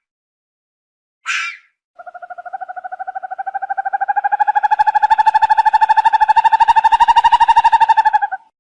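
An animal's long trilling call: a fast, even pulsing on one steady pitch that swells in loudness over about six seconds, then stops abruptly. It is preceded by a brief hiss-like burst about a second in.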